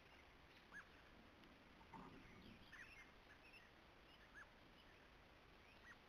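Faint, short bird chirps, four or five of them a second or two apart, over steady trail-camera hiss, with a brief soft rustle about two seconds in.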